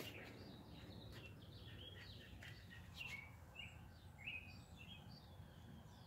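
Faint birds chirping here and there over quiet outdoor background noise, with a few soft clicks.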